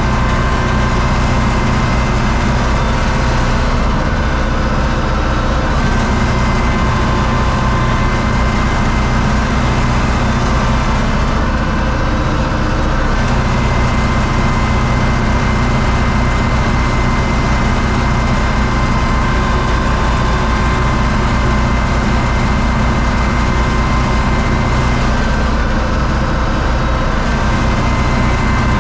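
U650 tractor's diesel engine running steadily, with a faint steady whine over the engine note.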